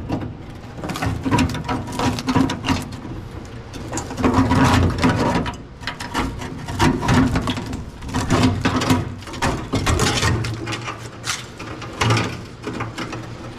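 Uneven bunches of metallic clicking and rattling from hand tools being worked on the truck.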